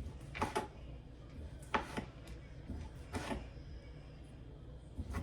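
Kitchen knife slicing sausage on a cutting board: a few separate knocks as the blade goes through to the board, spaced a second or more apart.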